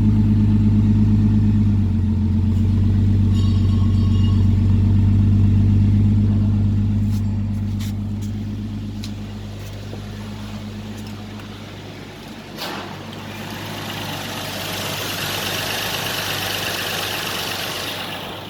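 Nissan Elgrand's VQ35DE 3.5-litre V6 running smoothly at an even speed, loud at first and growing quieter after about seven seconds. A click comes a little past halfway, then a steady hiss for the last few seconds.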